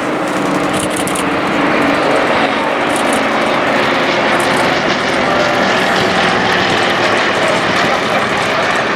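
Formation of propeller aerobatic aircraft, including a Yak-18 and a Yak-52 with nine-cylinder radial engines, flying past with the engines and propellers droning steadily, a little louder after about two seconds.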